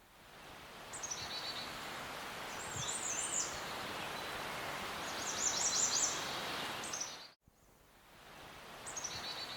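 Outdoor ambience: a steady hiss with small birds chirping in short high twittering phrases every couple of seconds. It drops out briefly about seven seconds in, then comes back with more chirps.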